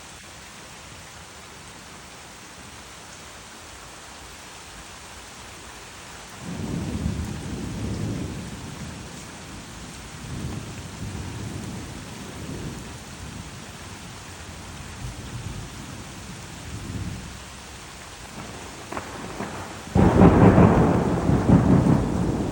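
Steady rain with thunder: after about six seconds of rain alone, a long low rumble of thunder rolls in, swelling and fading in waves, and near the end a sudden, much louder thunderclap breaks overhead.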